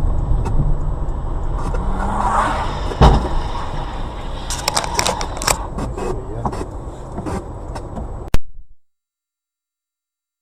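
Car interior noise from a dashcam: a steady low rumble of the running car with scattered clicks and knocks, including a thump about three seconds in and a cluster of clicks around five seconds. A sharp click a little after eight seconds, then the audio cuts off to dead silence.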